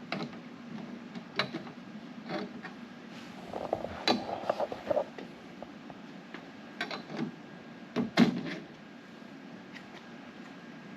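Scattered light clicks and knocks as a car's outside door mirror and its gasket are worked into place against the door, with a short scraping rattle about four seconds in.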